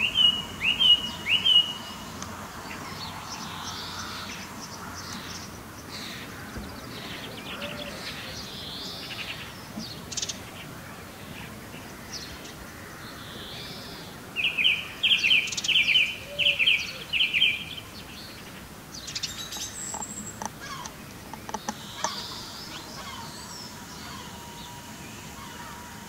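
Songbirds chirping: a quick run of four high notes at the start and a longer run of about eight quick repeated notes about halfway through, with fainter calls in between.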